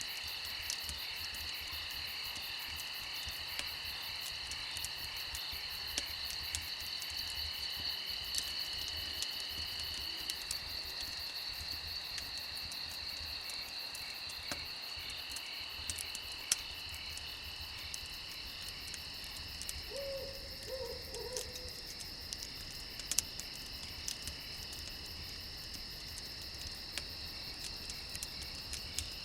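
Crickets chirping steadily in a high, continuous trill, with scattered sharp pops from a crackling campfire. A brief run of low calls from another animal comes about two-thirds of the way through.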